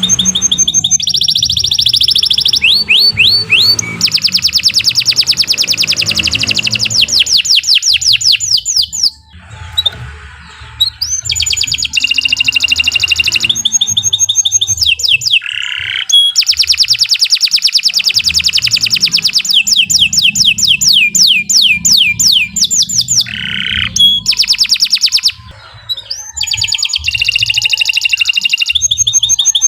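Domestic canary singing long, fast trills of rapidly repeated high notes, phrase after phrase, with two short pauses.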